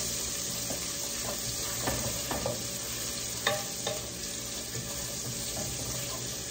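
Chopped garlic and ginger sizzling in hot oil in a pot, stirred with a wooden spatula that scrapes and taps against the pot now and then.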